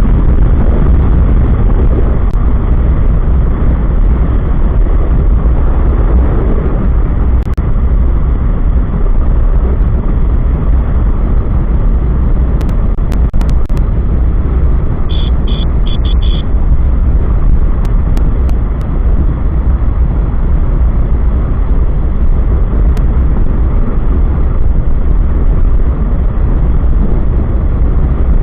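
Wind buffeting the microphone and motorcycle road noise while riding on a highway, loud and steady. About halfway through, four quick high beeps.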